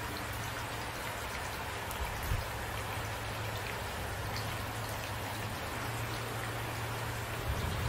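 Steady rain falling, with individual drops tapping distinctly, and two brief low thumps, about two seconds in and near the end.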